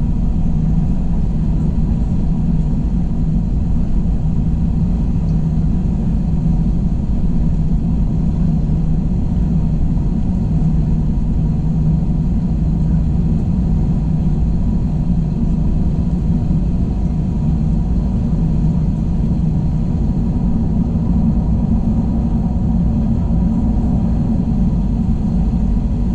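Steady low rumble of an Airbus A321 airliner as heard inside its passenger cabin, with a few faint steady tones above it and no change in level.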